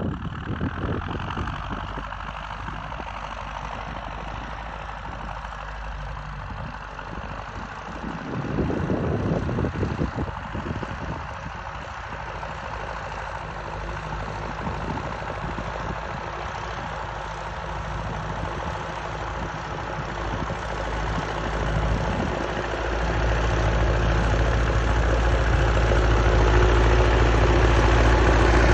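MTZ tractor's swapped-in MAN 4.6-litre turbo diesel engine running steadily while pulling a plough. It briefly gets louder about a third of the way through, then rises again and stays louder near the end.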